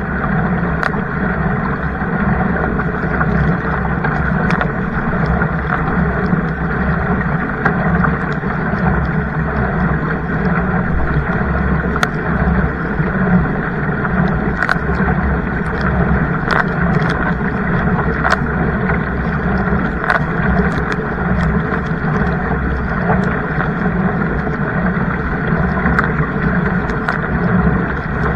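Kayak on the water: a steady rush of water and wind noise on the microphone, with scattered sharp clicks and knocks, likely from the paddle and hull.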